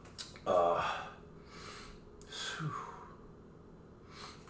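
A man sighs aloud about half a second in, the voice falling in pitch. Several breathy sniffs and exhales follow, the last near the end.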